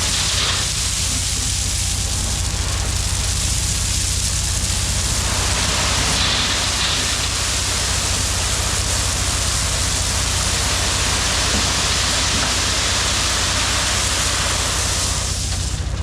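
Heavy equipment's diesel engine running steadily, under a loud rushing hiss that swells about five seconds in and stops near the end.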